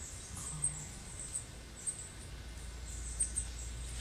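A small bird's high, thin chip notes, repeated several times a second at uneven spacing, over a steady low rumble.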